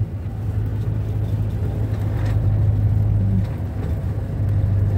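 Vehicle engine and road noise while driving: a steady low drone.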